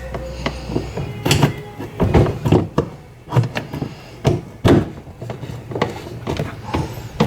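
Irregular knocks, thunks and clatter of parts and tools being handled on a washing machine under repair.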